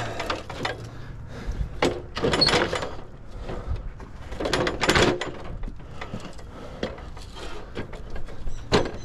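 Intermittent knocks, clunks and rattles of hardware being handled, in a few short louder bursts about two seconds, five seconds and nine seconds in.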